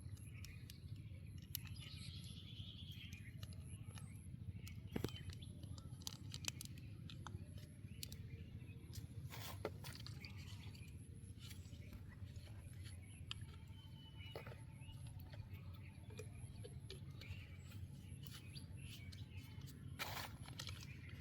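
Faint outdoor ambience: small birds chirping over a steady low rumble, with scattered light clicks and taps.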